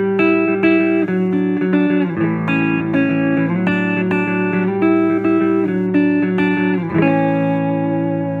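Electric guitar with a 'Fat Bottom' humbucker in the neck position, played clean through a Fender Vibrolux Reverb amp. It picks a steady run of chord notes, two to three a second, then strikes a chord about seven seconds in and lets it ring out.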